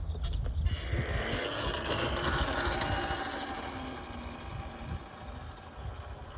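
Yozma IN10 electric dirt bike pulling away on a short run-up: motor whine and tyre and wind noise build about a second in, then ease off after about four seconds.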